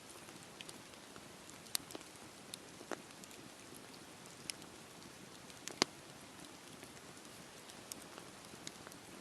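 Campfire burning: a steady soft rush of flame with irregular sharp crackles and pops from the burning wood. The loudest pop comes about two-thirds of the way through.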